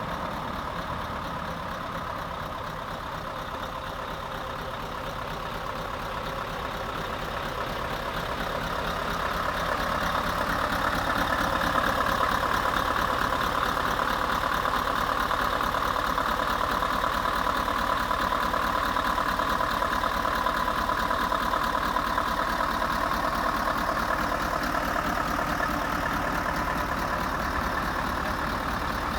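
Scania R520's 16-litre V8 diesel engine idling steadily. It grows louder about a third of the way in, then holds level.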